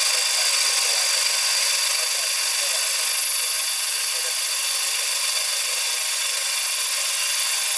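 CNC machine spindle running steadily at high speed, a high-pitched whine.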